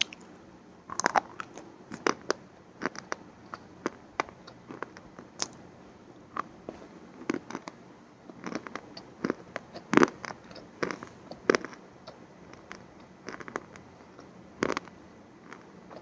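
Close-miked chewing of crunchy food: irregular sharp crunches and crackles, a few a second, with louder bites about one, two, ten and fifteen seconds in.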